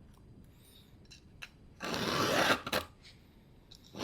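A small round chainsaw file rasping once across a cutter tooth of a small saw chain during hand sharpening, about two seconds in, after a few faint clicks of the file and chain. The teeth are dull, from the chain having been run dry.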